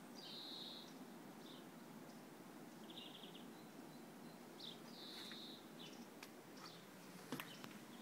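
Faint outdoor ambience of small birds chirping in short, separate phrases, one a quick run of repeated notes, over a low steady hiss. A sharp click comes near the end.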